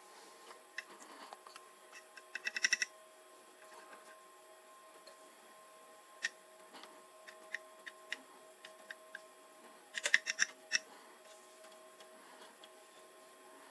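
Light clicks and ticks, in two quick rattling clusters, one about two and a half seconds in and one about ten seconds in, with scattered single clicks between, over faint steady tones.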